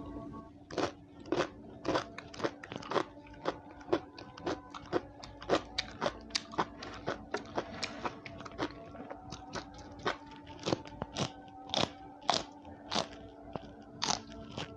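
Close-miked mouth crunching as raw yardlong bean (asparagus bean) is chewed, with crisp crunches coming about twice a second.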